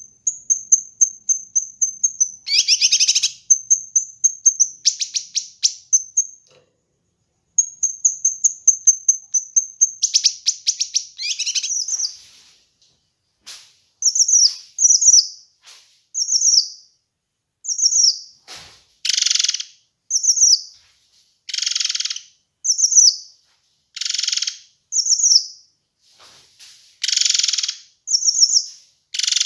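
Kinoi songbird singing: fast strings of high, rapidly repeated notes, broken by a harsh buzzy call early on, then after a short pause separate short down-slurred whistles alternating with louder harsh rasping calls.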